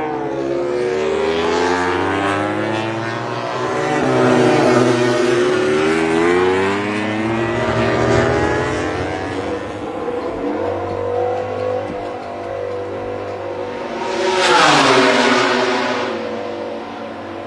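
MotoGP racing motorcycle engines at high revs. Several bikes are heard at once, their pitch rising and falling as they accelerate and shift. One bike passes close with a loud swell a little after two-thirds of the way in.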